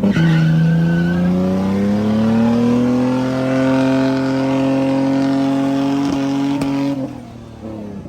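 Car engine revving up and held at high revs for several seconds, then let off suddenly near the end.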